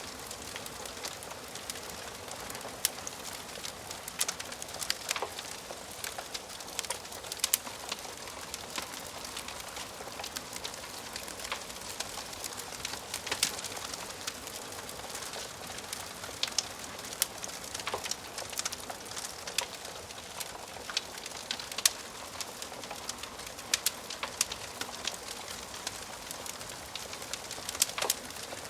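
Wood fire crackling in a fireplace: irregular sharp pops and snaps over a steady soft hiss of burning wood.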